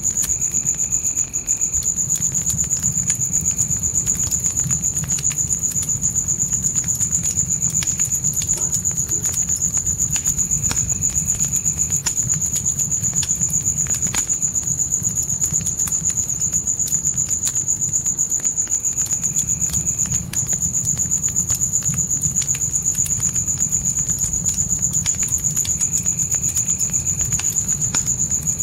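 Crickets trilling in a steady, high, unbroken chorus over a crackling fire, with scattered pops and a low rumble from the flames. A second, lower insect call comes and goes every few seconds.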